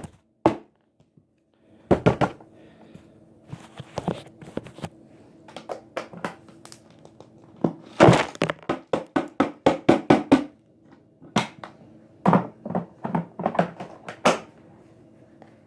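Irregular knocks and thuds, some in quick clusters, over a faint steady low hum.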